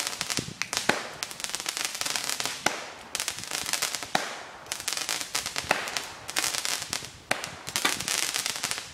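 Consumer fireworks going off: a continuous dense crackling, broken by sharp louder bangs about once a second.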